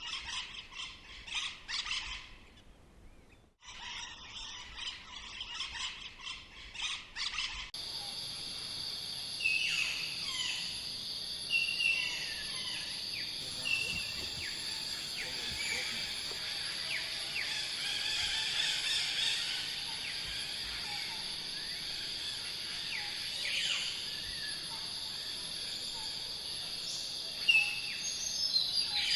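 Tropical rainforest ambience: birds calling over a steady, high, shrill insect drone. The first part holds scattered calls, then about eight seconds in the sound changes abruptly to the steady drone with short, repeated, falling bird chirps.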